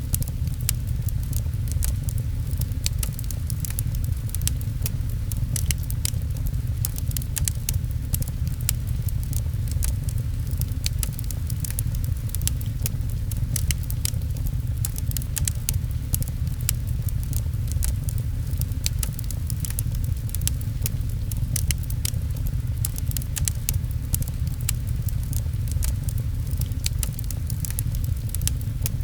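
Fireplace crackling with many sharp pops, over a steady low rumble and patter of rain.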